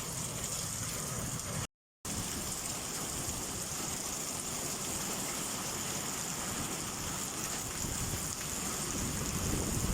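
Heavy rain pouring steadily in a downpour: a dense, even hiss with a low rumble underneath, broken by a brief dropout to silence just under two seconds in.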